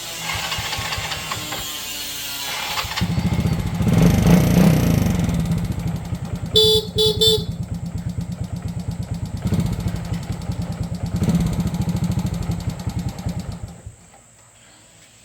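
Small motorcycle engine running with a steady pulsing beat, with three quick horn beeps partway through; the engine cuts off about fourteen seconds in.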